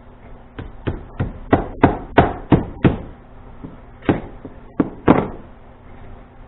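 A series of sharp knocks, about eight at roughly three a second, then a short pause and three more, from hands-on work on a come-along's cable end.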